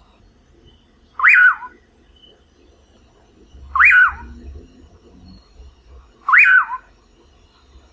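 Common pauraque (curiango, Nyctidromus albicollis) singing: three whistled calls about two and a half seconds apart, each rising sharply and then falling away.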